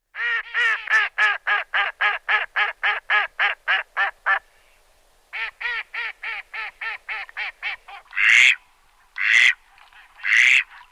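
An animal calling: a rapid run of short, evenly spaced pitched calls, about five a second, then after a brief pause a softer run of the same. Near the end come three louder, harsher calls about a second apart.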